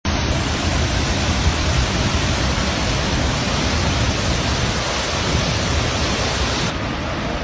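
Ouzoud waterfall in spate after heavy storm rain: a loud, steady rush of falling water with a deep rumble underneath, turning slightly duller near the end.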